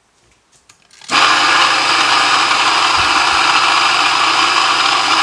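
Mazzer Mini doser coffee grinder switched on about a second in, its motor running steadily as the flat burrs grind coffee beans. Two dull knocks come about two seconds in.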